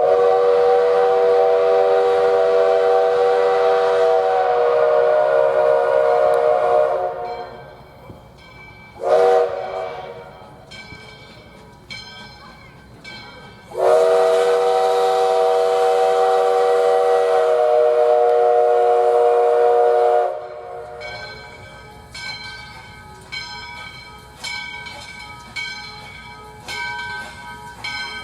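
US Sugar steam locomotive #148's chime whistle blowing a chord of several notes: a long blast of about seven seconds, a brief toot, then another long blast of about six seconds, the pitch sagging slightly near the end of each long blast. From about 21 seconds the locomotive bell rings steadily, roughly once a second.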